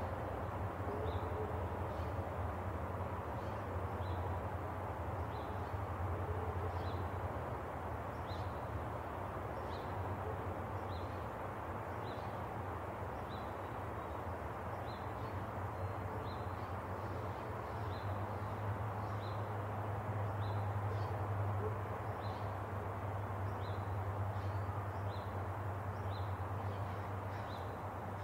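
Backyard ambience: a steady low background rumble, with a bird repeating a short high call about once a second.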